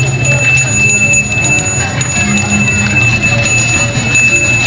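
A bell ringing continuously in one steady high tone, with many small rapid ticks, over a constant low hum.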